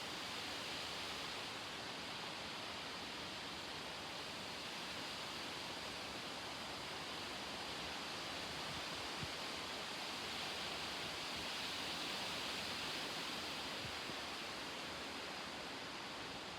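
Strong thunderstorm wind blowing steadily, a rushing hiss that grows a little louder about twelve seconds in.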